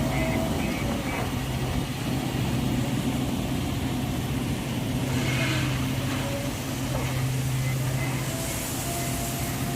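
Heavy diesel engine of a backhoe loader or farm machine running steadily, a continuous low hum, with faint higher whining tones drifting over it.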